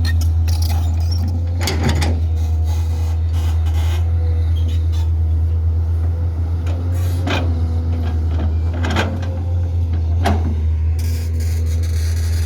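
Komatsu D85 crawler bulldozer's diesel engine running under load with a steady deep drone. A few sharp clanks or scrapes sound about 2, 7, 9 and 10 seconds in, and a hiss comes near the end.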